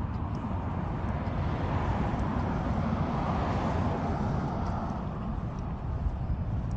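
A passing vehicle heard during a walk: a steady noise that swells in the middle and fades away again, over a constant low rumble.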